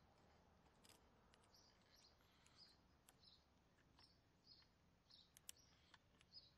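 Near silence outdoors, with a faint bird chirping over and over, about twice a second, and a few light clicks as the toy garbage truck and its plastic bins are handled.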